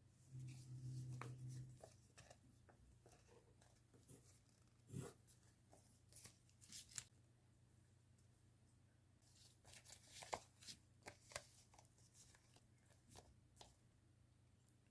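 Faint rustling and crinkling of paper and plastic stationery packaging being handled, with scattered light taps and clicks. A brief low buzz sounds in the first couple of seconds.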